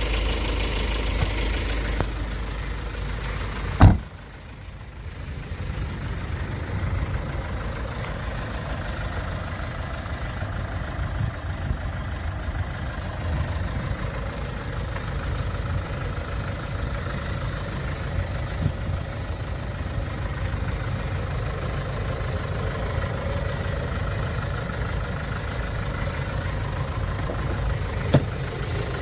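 Kia Bongo III refrigerator truck's diesel engine idling steadily. A louder stretch of noise at the start ends in a sharp click about four seconds in, and the low idle rumble runs on after it.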